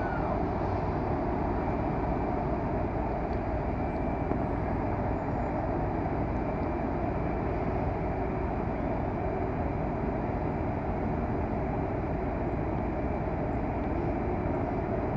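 Steady rumbling noise of blizzard wind buffeting the microphone, even throughout with no separate events.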